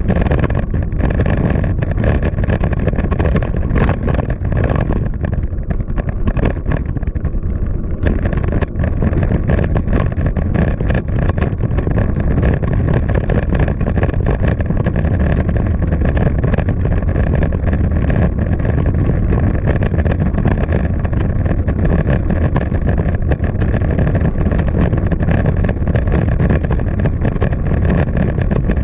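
Steady, loud low rumble of city street noise: traffic and wind buffeting the microphone on the move, with a faint thin steady tone above it.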